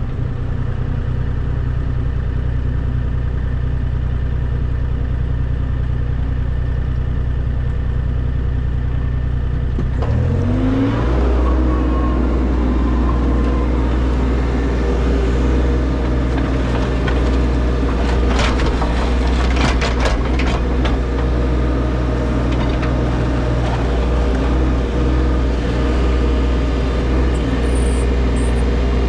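An engine running steadily, its speed shifting about ten seconds in, with a few sharp clatters partway through.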